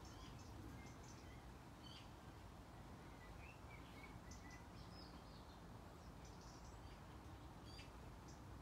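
Near silence: faint background noise with scattered short, high bird chirps.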